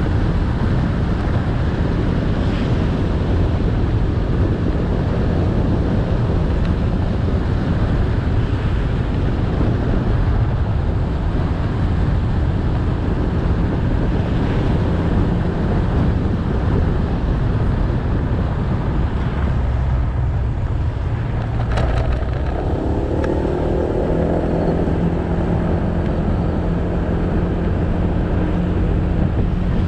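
Motorcycle running along the road with steady engine, tyre and wind noise on the microphone. About two-thirds of the way in there is a sharp click, then a pitched sound with several tones for a few seconds.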